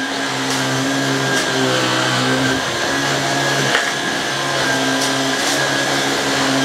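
Black + Decker PowerSeries 16V cordless vacuum running steadily on a hard floor, a motor hum with a high whine, and a few light clicks. It is spitting the dirt back and snowplowing rather than picking it up.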